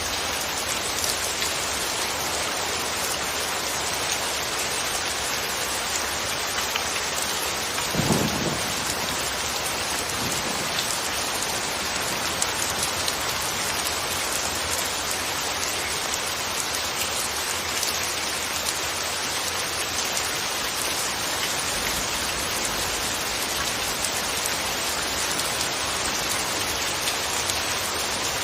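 Steady rain falling in a continuous even hiss, with a brief low rumble about eight seconds in.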